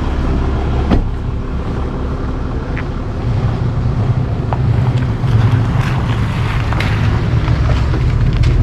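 Tow truck engine running with a steady low rumble, getting somewhat stronger about three seconds in.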